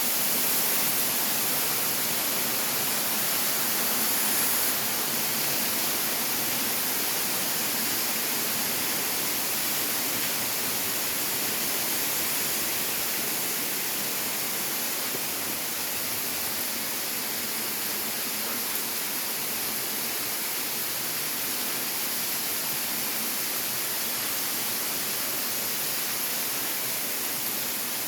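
Steady rushing of falling water from a waterfall, an unbroken hiss with no let-up or change.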